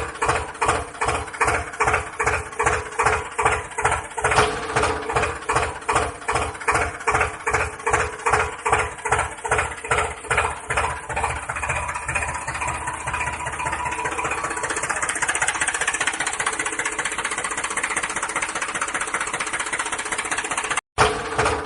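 Tractor engine running with a slow, even chugging beat, about two to three beats a second, then speeding up into a steadier, higher engine note about two-thirds of the way through. The sound cuts out briefly near the end.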